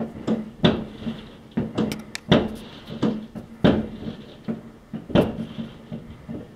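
Fireworks going off: an irregular run of sharp bangs and cracks at varying loudness, roughly two a second, each echoing briefly.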